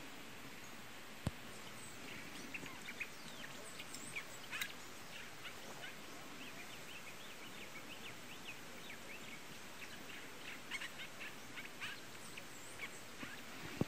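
Birds calling: a scattered run of short, high chirps over faint outdoor background noise, with a single sharp click about a second in.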